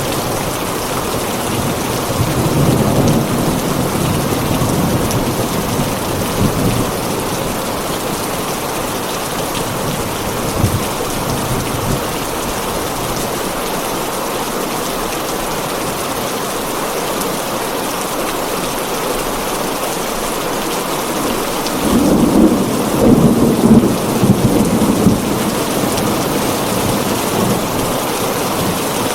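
Heavy rain pattering steadily on a tin roof, with thunder rumbling twice: a few seconds in and again, louder, a little after twenty seconds in.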